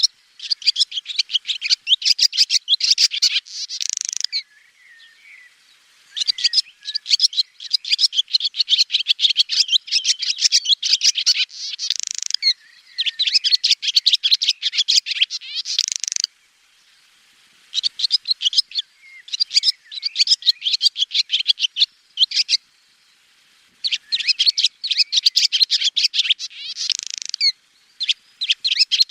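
Swallow twittering: about six bouts of rapid, chattering high notes, each a few seconds long, separated by short pauses.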